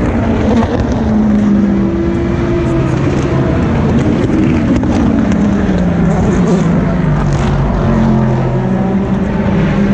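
Endurance race car engines running through a chicane: several cars overlap, their pitch stepping down and climbing again in short steps as they shift gears.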